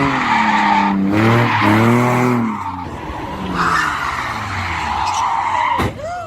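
Car engine revving hard, its pitch rising and falling, over the steady hiss of spinning, squealing tyres; the sound cuts off abruptly near the end.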